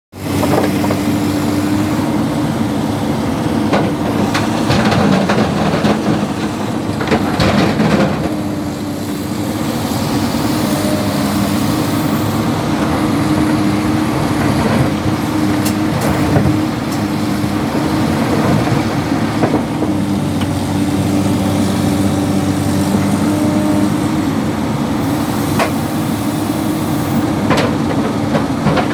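Excavator's diesel engine running steadily under load, with scattered clatters and knocks of rock being scooped and dropped, heaviest about four to eight seconds in and again near the end.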